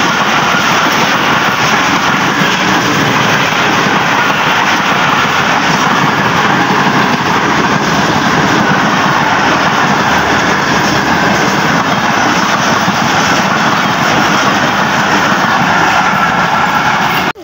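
Pakistan Railways passenger coaches passing at speed close by: a loud, steady rush of wheel and rail noise.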